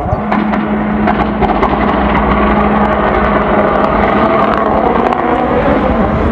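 A competition car's engine running hard, with a steady low drone and a wavering higher engine note, and scattered sharp clicks over it.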